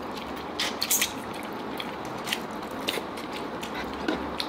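Close-miked eating: chicken being chewed, with sharp mouth clicks and smacks scattered through, over a steady hiss.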